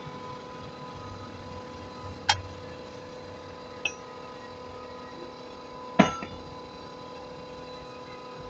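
Three sharp metal clanks, tools or steel parts knocking together; the last is the loudest and rings briefly. A steady machine hum runs under them.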